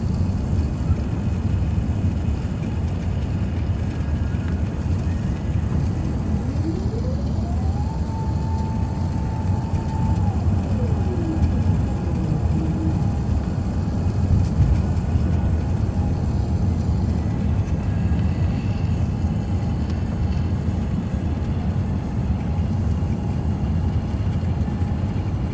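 Airbus A380 cabin noise on approach: a steady low rumble of engines and airflow. About six seconds in, a whine rises, holds for a couple of seconds, then falls away.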